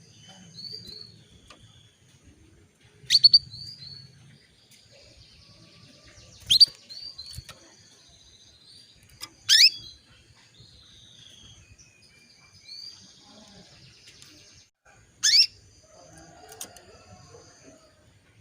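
Female canary calling: four loud, sharp chirps that drop quickly in pitch, spaced a few seconds apart, with softer high twittering between them. These are the female's calls to a male canary.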